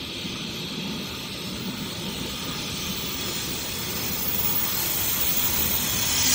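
Electric passenger train approaching over a viaduct and passing close by, its steady rumble and rushing hiss growing gradually louder.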